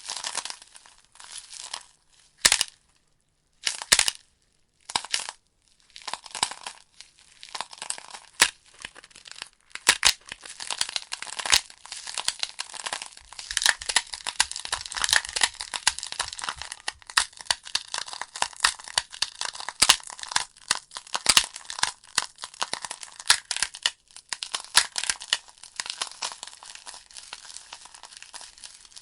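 Burning logs in a fireplace crackling, a dense, irregular run of sharp snaps. A few seconds in the crackling thins to single pops with short quiet gaps between them, then it picks up again.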